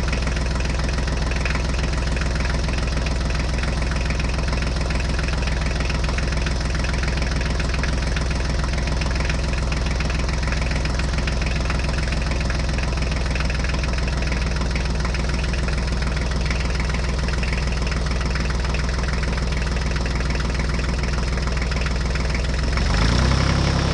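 Tractor engine idling steadily with a knocking beat, revving up near the end.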